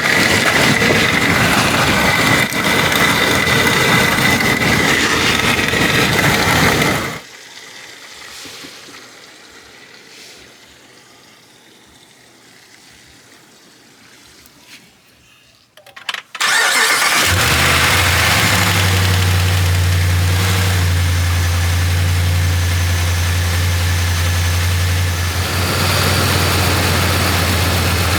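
Vacuum coolant filler hissing steadily as it draws coolant into the cooling system, cutting off sharply about seven seconds in. After a quieter stretch, the Ram 1500's 5.7L Hemi V8 cranks and starts at about sixteen seconds and settles into a steady idle.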